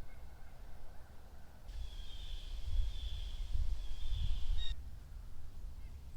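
A high, wavering bird call held for about three seconds, over a low rumble.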